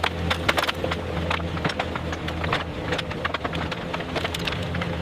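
A motor running steadily with a low hum, with many sharp clicks and knocks over it.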